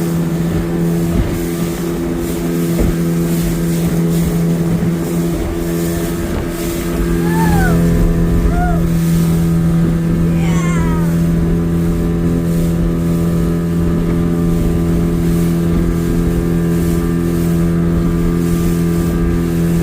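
Motorboat engine running at a steady pitch, with a few short, high gliding cries about a third and halfway through.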